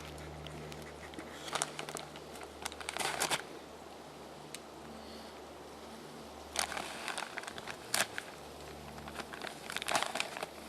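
A bag crinkling and rustling in several short bursts as it is handled and opened.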